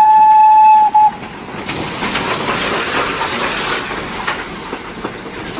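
Steam train sound effect: a steady locomotive whistle that stops about a second in after a short extra toot, followed by a long hiss of steam.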